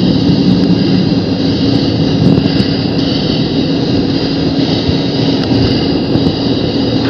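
CT-114 Tutor's single turbojet engine running steadily, heard inside the cockpit: an even rush of noise with a constant high whine over a low hum.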